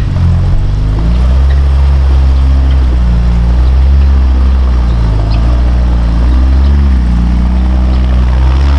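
Off-road vehicle's engine running loud under load, its revs wavering up and down.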